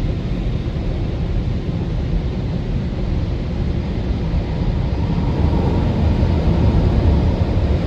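Automatic car wash machinery running: a steady rushing rumble, heaviest in the low end, that grows a little louder about five seconds in.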